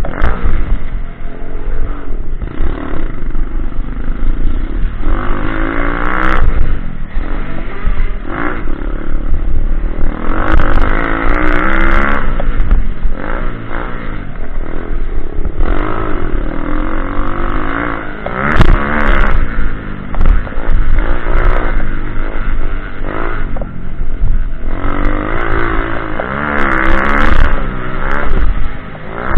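Small single-cylinder pitbike engine revving up and down, its pitch rising and falling over and over, with a few sharp knocks.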